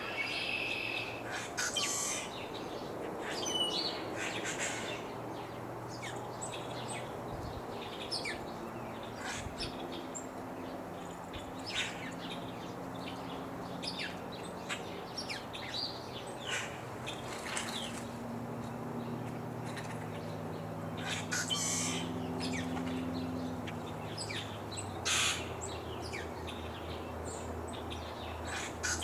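Birds calling, short chirps and calls scattered all through, over a soft steady breeze. A faint low hum sits underneath through the middle part.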